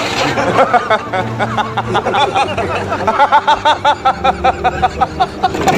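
Suzuki F6A three-cylinder engine being cranked on the starter, a regular pulsing that grows stronger about three seconds in, without catching: a hard-starting engine.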